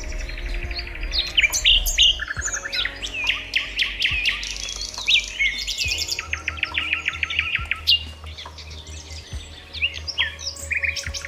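A chorus of several songbirds chirping and calling, with rapid buzzy trills near the start and again about six seconds in, over a low steady rumble.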